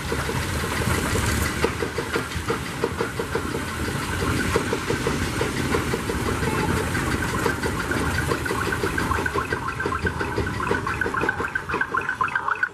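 Primeval Whirl spinning coaster car rattling along its track, a fast run of clicks over a steady rushing noise.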